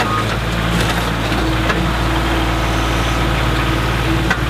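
A heavy machine's engine running steadily, with a few short cracks and knocks.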